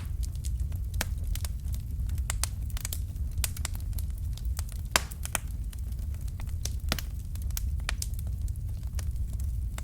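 Fireplace fire crackling: irregular sharp pops and snaps over a low steady rumble, with one louder pop near the middle.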